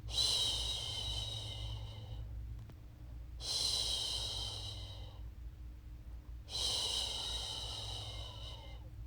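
A woman's voice shushing "shhh" to lull a baby to sleep: three long shushes of about two seconds each, repeating about every three seconds, over a steady low hum.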